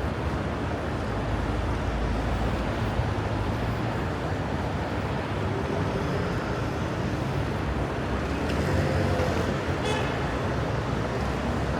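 Steady road traffic on a wide city boulevard, with cars driving past. A brief high-pitched squeak or toot comes about ten seconds in.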